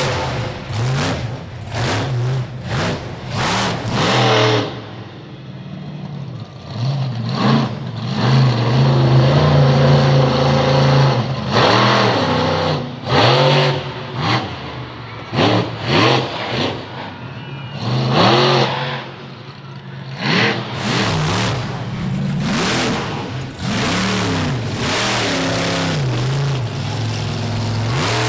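Bigfoot monster truck's engine revving hard in repeated throttle bursts, with rising and falling pitch sweeps over a steady lower drone as the truck is driven through a freestyle run.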